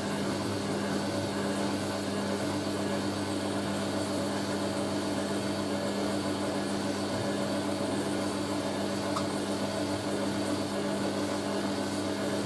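Hoover A3060 Electronic 1100 washing machine running on its distribute stage, tumbling to spread the load before the spin, with a steady, even hum.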